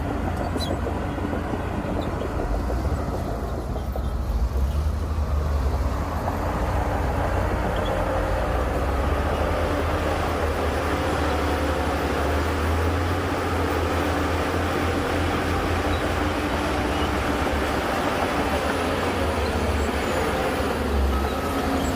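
Heavy diesel earthmoving machinery running, a deep steady engine rumble with a broad rattling noise above it that grows louder and fuller about five seconds in.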